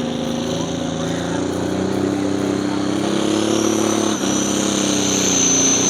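Pulling vehicle's engine running hard under load down the track, its pitch climbing over the first few seconds, dipping briefly about four seconds in, then pulling on with a high whistle rising above it until it drops off at the end. The announcer hears a heck of a miss in the engine, a misfire.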